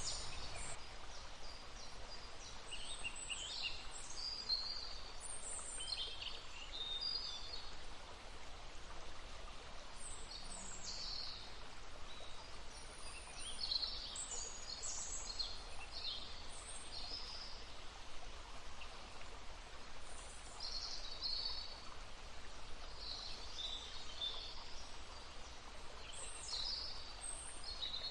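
Songbirds singing over the steady rush of a babbling brook: short high chirps and trills every second or two.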